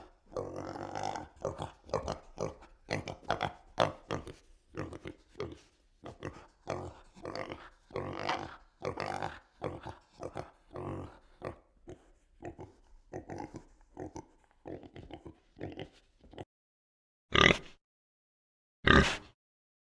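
Animal grunts in a rapid, irregular run of short calls, then two louder single calls after a pause near the end.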